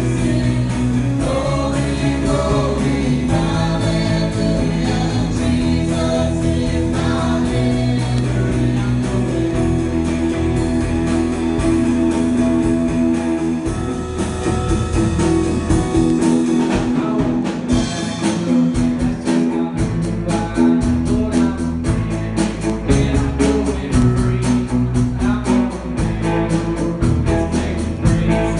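Gospel worship song with singing over instruments. In the second half the singing drops back and a steady, rhythmic guitar strumming takes over.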